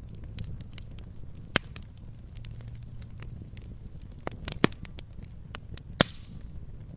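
Wood campfire crackling, with scattered sharp pops and snaps over a low steady rumble of the burning fire. The loudest pop comes about six seconds in.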